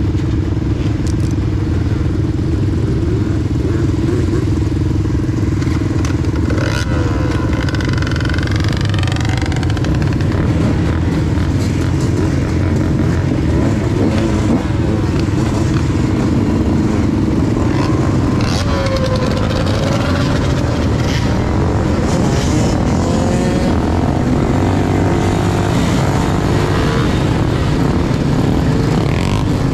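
Engines of a group of dirt bikes and ATVs running, the nearest being a Yamaha YZ125's single-cylinder two-stroke. Engines rev up and down a few times, around a quarter of the way in and again past the middle.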